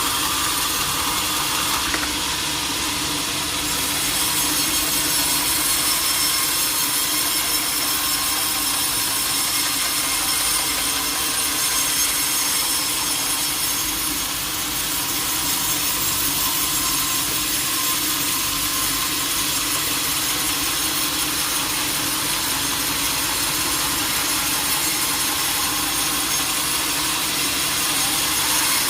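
Sawmill saw cutting through a large teak log, a steady, unbroken cutting noise with a high hiss over a constant hum.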